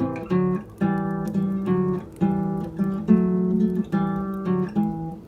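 Almires classical nylon-string guitar playing two-note intervals, plucked one after another in a steady rhythm, a dozen or so in all.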